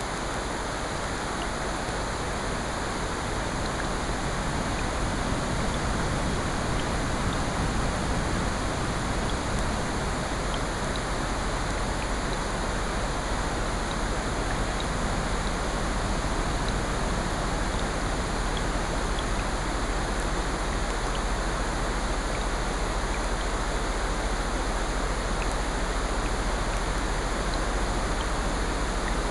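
Layered ambient mix of steady rain and ocean surf, a constant even wash of noise, with faint scattered crackles from a fireplace.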